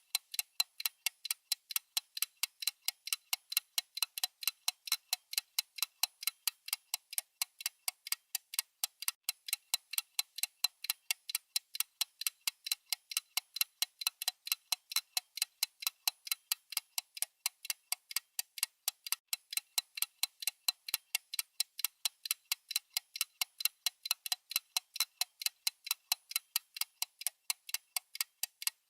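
Clock-style ticking sound effect of a countdown timer: a steady, even run of sharp, high ticks with nothing else beneath them.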